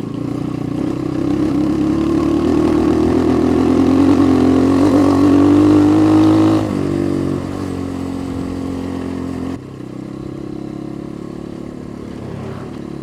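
Motorcycle engine accelerating, its pitch climbing steadily, then dropping suddenly about two-thirds of the way through as it shifts gear, and easing off a few seconds later.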